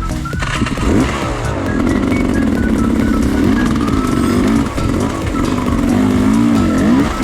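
Enduro dirt bike engine revving up and down over and over as the rider works the throttle off-road, with background music.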